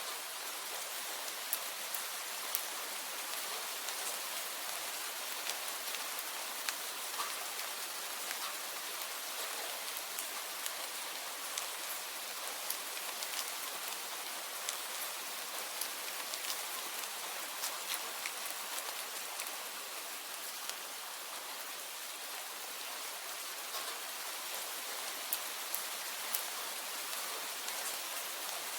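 Steady rain falling, an even hiss with frequent sharp drop ticks scattered throughout.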